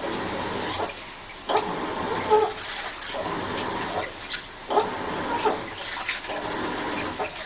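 Washing machine in its wash cycle: water sloshing in the turning drum, with a strange squeaky, whine-like noise that comes round about every three seconds.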